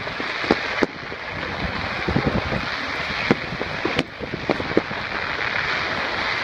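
Fireworks going off, a string of sharp bangs and pops at irregular intervals over a steady rushing noise.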